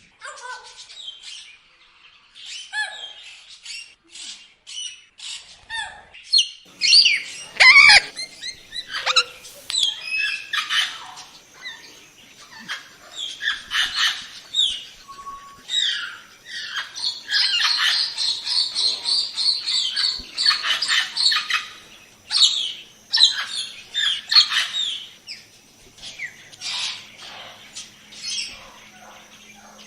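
Parrots calling: a busy run of short chirps, whistles and squawks, thickest in a dense stretch of chatter about two-thirds of the way through.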